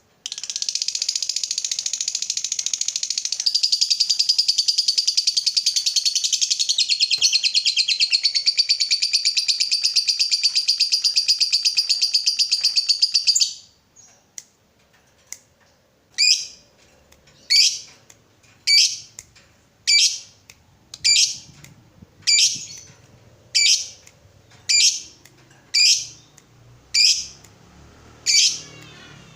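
Lovebird ngekek: a long, unbroken, rapid high chattering trill lasting about thirteen seconds that cuts off suddenly. After a short pause comes a run of single sharp chirps about one a second.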